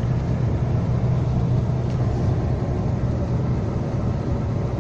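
Semi-truck's diesel engine running steadily at highway cruise of about 80–85 km/h, with a low drone and road noise heard inside the cab.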